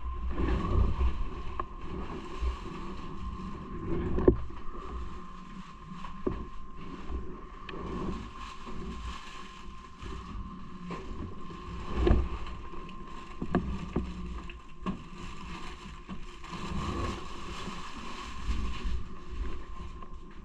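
Riding noise from a bike: low rumble and wind on the microphone, with a steady high whine underneath. Several short knocks, the loudest about four and twelve seconds in.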